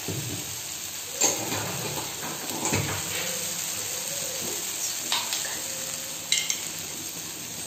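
Chopped onions and tomatoes sizzling steadily in hot oil in a kadai, with a few short metallic clinks of a utensil against the pan scattered through.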